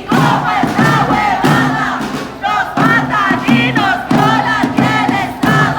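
A crowd of women chanting protest slogans in unison, in loud, rhythmic shouted syllables.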